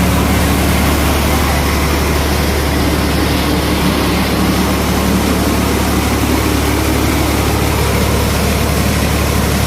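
Tractor-driven mini rice mill running under power: a steady, loud mechanical noise of the milling and polishing machinery over the low drone of the tractor engine, unchanging throughout.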